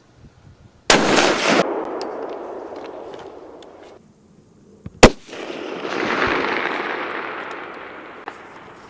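Two rifle shots about four seconds apart, each crack followed by a long rolling echo that dies away over several seconds. The second shot is the louder and sharper.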